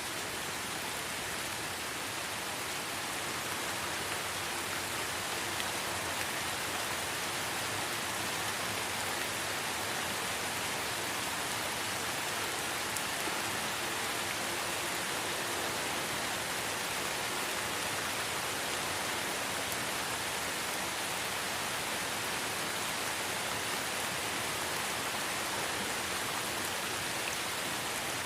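Light rain falling in a forest, a steady, even hiss of many fine drops.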